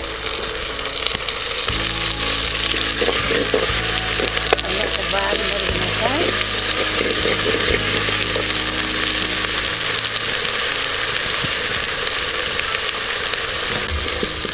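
Chopped tomatoes frying with ginger-garlic paste in hot oil in a clay pot: a steady sizzle, with a wooden spatula scraping and knocking against the pot as it stirs.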